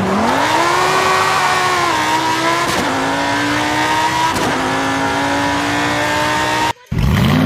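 A car engine revving sound. It starts abruptly, dips and climbs in pitch, then holds with a few small steps. It cuts off suddenly near the end, and a different engine sound starts.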